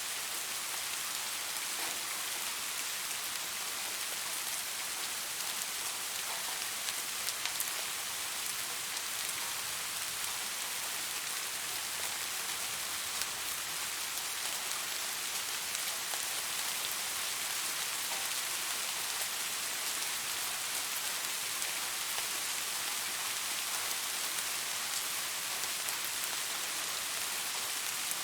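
Steady rain falling on leaves, an even hiss with scattered small drop ticks.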